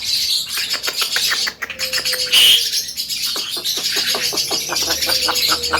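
Javan myna (jalak kebo) chattering: a fast run of short clicking calls, with one louder harsh call about two and a half seconds in.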